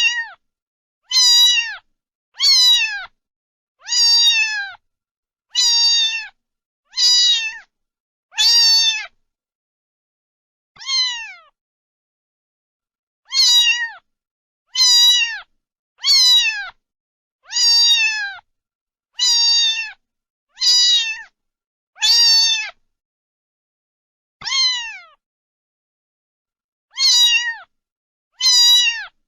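Domestic cat meowing over and over, short calls that each fall in pitch, about one every second and a half, with a couple of longer pauses.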